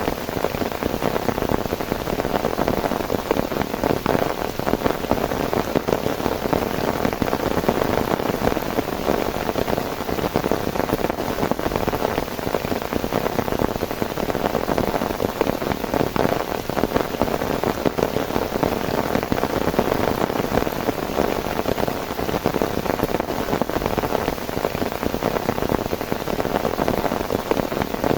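Heavy rain falling steadily, a dense, even patter of drops striking a surface.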